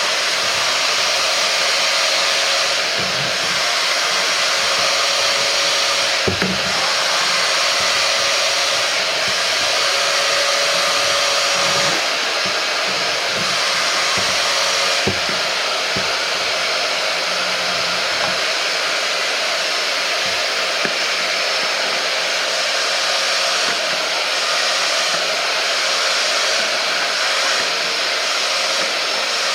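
Hoover PowerDash Go Pet portable carpet spot cleaner running steadily, its motor giving a continuous suction whoosh with a faint steady whine, and a few low bumps in the first half as the nozzle is worked over the carpet.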